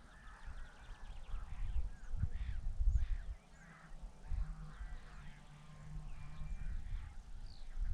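Several birds calling and chirping over one another, with irregular low rumbling thumps underneath and a faint low hum in the middle.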